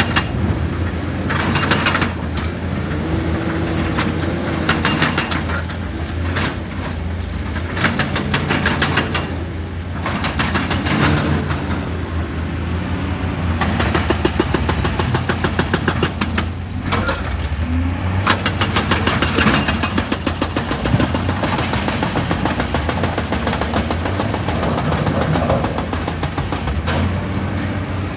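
Excavator engine running steadily under load, with several spells of rapid, repeated hammering on rock.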